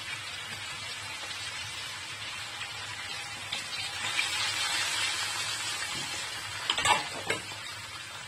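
Hot oil sizzling in a wok as chopped fresh tomatoes are added to frying onions. The sizzle swells about four seconds in as the rest of the tomatoes go in, and a few light knocks come near the end.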